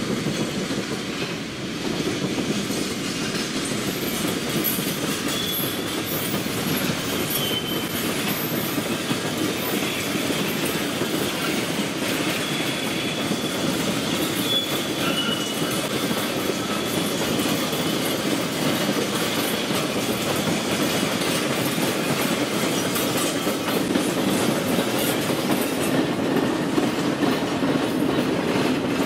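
Hot-metal bottle cars and diesel switcher locomotives rolling slowly across a grade crossing: a steady rumble and clatter of steel wheels on the rails, with a few brief high wheel squeals in the first half. It grows a little louder near the end as the locomotives pass.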